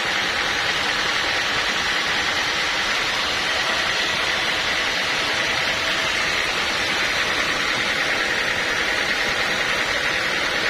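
Sawmill machinery running steadily: a continuous mechanical hiss with a high whine held at one pitch.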